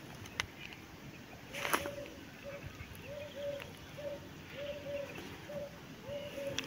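A bird calling in short, low, arched notes, mostly in pairs, repeated steadily through most of the stretch. Two sharp knocks come in the first two seconds, the louder one just before the calls begin.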